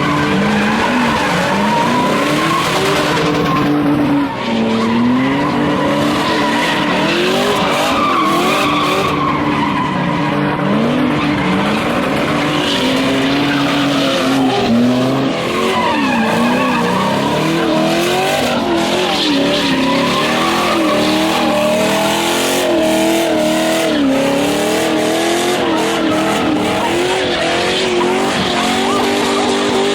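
Car engine revving up and down again and again as the car drifts, its tyres squealing and skidding throughout.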